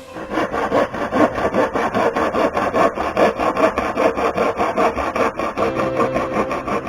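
Wood being worked by hand with quick, even back-and-forth rasping strokes, about four to five a second.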